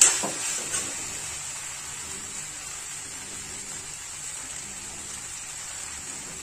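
Rice, potatoes and peas frying in spiced oil in a steel kadhai, sizzling steadily. A spatula knocks against the pan right at the start, with a couple of lighter clicks just after.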